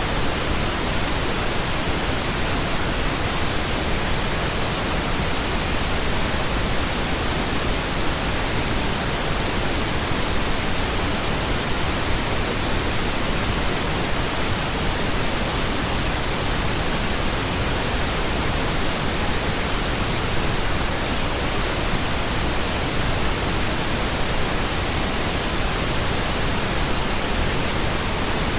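Steady pink noise: an even, unchanging hiss spread from deep to high pitches.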